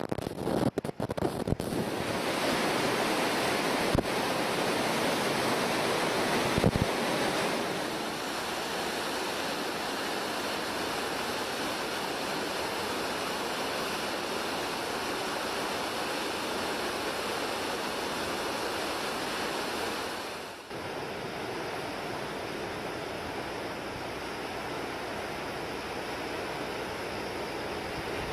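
Steady rushing of the Tomita River swollen with typhoon floodwater. The first couple of seconds break up with clicks and dropouts, and there is a brief dip about twenty seconds in.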